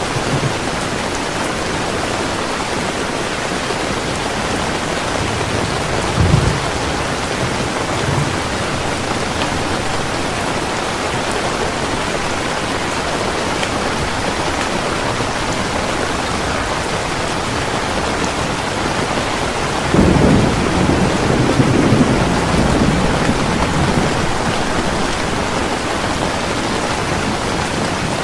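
Heavy rain falling steadily, with a short low rumble of thunder about six seconds in and a louder, longer roll of thunder starting suddenly about twenty seconds in and fading over a few seconds.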